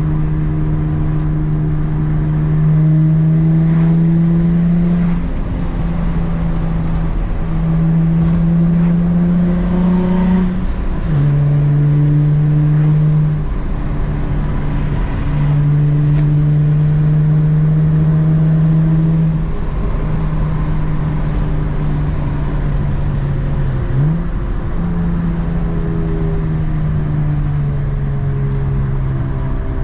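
Infiniti G35 coupe's 3.5-litre VQ V6 through a Z1 M Spec dual exhaust, driving: a steady exhaust drone whose pitch climbs slowly in long stretches. The note breaks off or steps in pitch about half a dozen times, as at manual gear changes, with a quick rev blip near the end.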